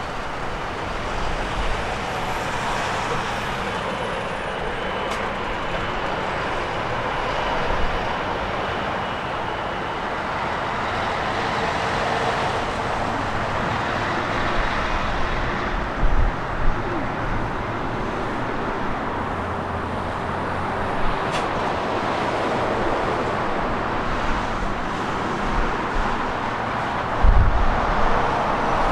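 Boeing 777 turbofan engines on a landing, a steady rush of jet noise with a faint high whine that glides up and then down in the first few seconds. Low thumps of wind hitting the microphone come in near the end.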